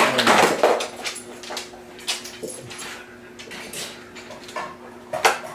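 A dog's noises as it plays rough with a cat, loudest in a noisy burst in the first second, then scattered short sounds and another brief burst near the end, over a faint steady hum.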